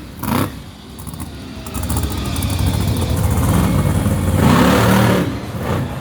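Monster truck engine revving. It drops away sharply at the start, builds back up over the next few seconds, and revs hard about four and a half seconds in before easing off.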